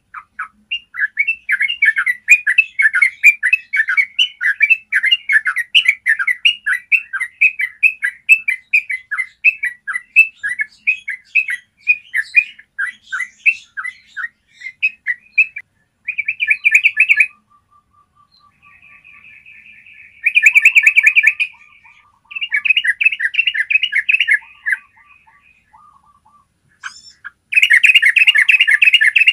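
Yellow-vented bulbul singing: a long run of quick chattering notes, then loud rolling trills in short bursts, three times in the second half.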